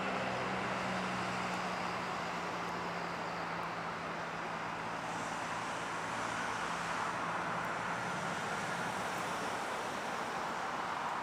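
Engine noise of a landing Boeing 747-400: a steady rushing sound with a low hum that fades out about eight seconds in.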